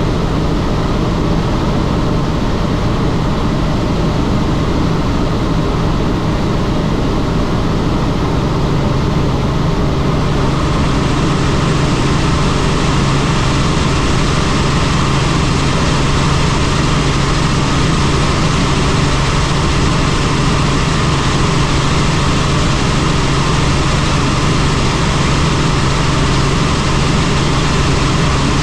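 Helicopter in flight: a steady, loud drone of rotor and engine with rushing wind, growing brighter and hissier about ten seconds in.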